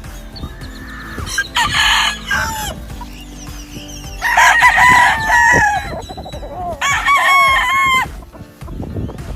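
Gamefowl roosters crowing: three separate crows, the first about a second and a half in, the two loudest in the middle and near the end.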